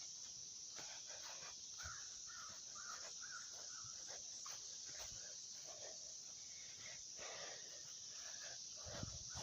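Faint outdoor ambience: a steady high insect drone, with a bird calling a quick run of short notes a couple of seconds in. A low thump near the end.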